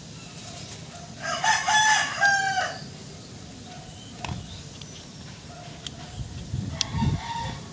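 A rooster crows once, about a second in, a call of about a second and a half in several stepped parts. A few sharp clicks follow later.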